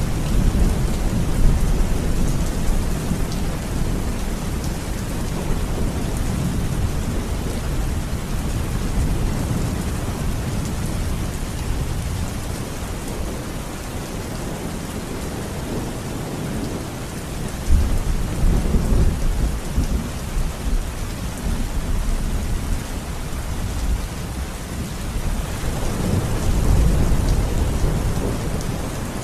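Steady rain with rolling thunder: low rumbles swell near the start, again a little past halfway, and once more near the end.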